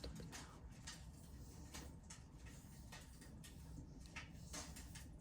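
Faint crackling of a wood fire in a fireplace: irregular small pops and snaps over a low steady rumble.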